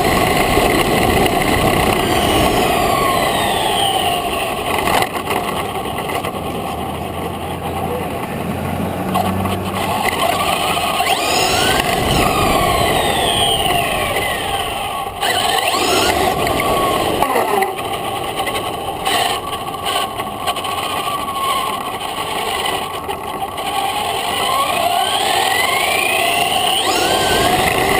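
Traxxas RC trophy truck with a 3900kv brushless electric motor driving hard, its motor whine rising and falling in pitch again and again as it speeds up and slows, over a steady rush of noise.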